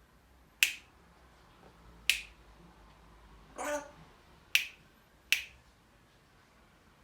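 African grey parrot making four sharp, snapping clicks, with a short pitched call between the second and third.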